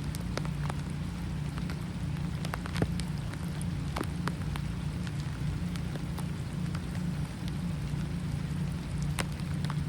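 Steady rain with many separate drops striking close by, over a constant low rumble.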